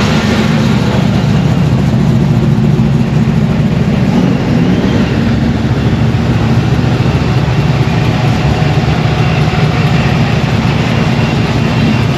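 Car engine idling with a loud, steady low exhaust rumble.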